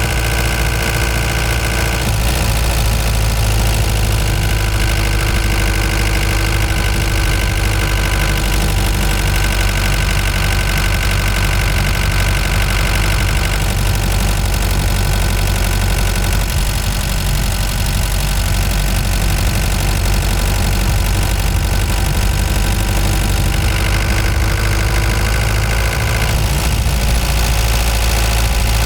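Ford Transit Mk5 van engine running as the van drives, a steady low drone whose note shifts a few times.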